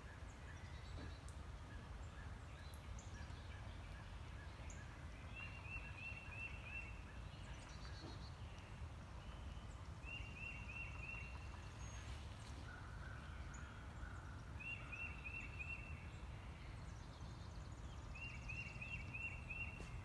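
A bird calling four times, each call a quick run of five or six high notes lasting about a second and a half, over a steady low rumble and faint scattered chirps.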